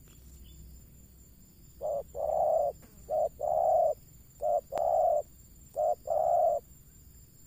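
Spotted dove (terkukur) cooing: four calls about a second and a half apart, each a short note followed by a longer one.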